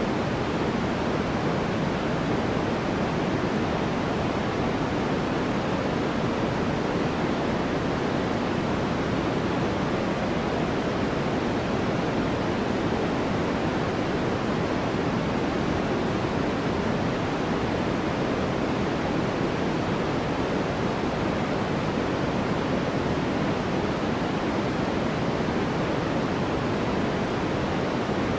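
Steady white noise sleep track: an even, unbroken hiss with a full, deep body rather than a thin, bright one.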